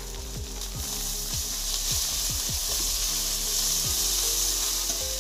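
Food sizzling in hot oil in a metal wok as it is stirred with a spatula. The sizzle swells about two seconds in.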